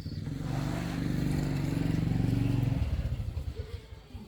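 A small engine running at a steady pitch, swelling louder for about three seconds and then dropping away.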